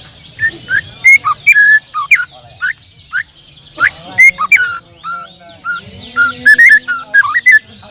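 Caged songbirds singing together: a dense chorus of high chirps underneath, with one loud bird repeatedly calling in quick, sliding whistled notes.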